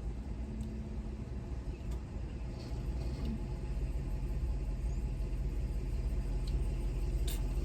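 Steady low rumble of an idling car engine, with a couple of faint clicks, the sharpest near the end.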